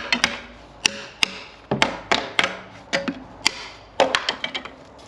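A series of sharp, irregularly spaced knocks and taps, some with a brief ringing tone, thinning out near the end.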